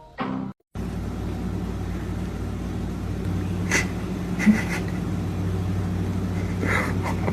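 Steady low hum of a running vehicle, with a few short sharp sounds over it about halfway through and again near the end.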